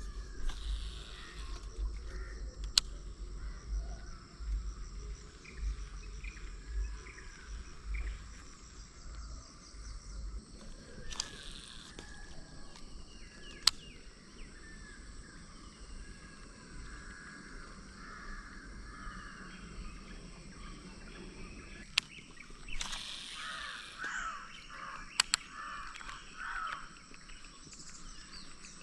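Outdoor ambience of birds calling and chirping, with a few sharp clicks spread through it and a low rumble over the first ten seconds or so.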